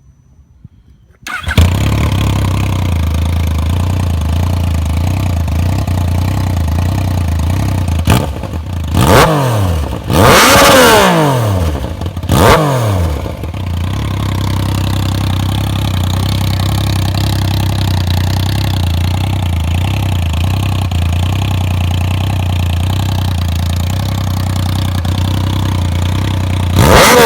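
Yamaha FZ-09's inline three-cylinder engine, breathing through a loud Toce slip-on exhaust, starting up about a second and a half in and settling into a steady idle. It is blipped several times around the middle, each rev rising and falling back to idle, and revved once more near the end.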